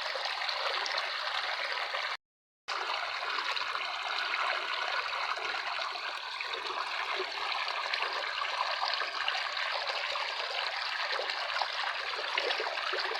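Running water trickling steadily, cutting out to total silence for about half a second roughly two seconds in.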